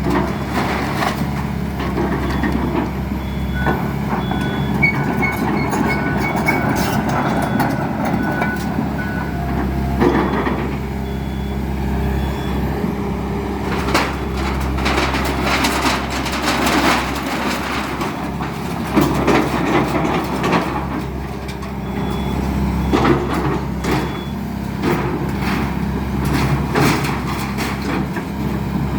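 Excavator engine running steadily under repeated knocks and crashes of demolition debris. A beeping alarm sounds for a few seconds near the start.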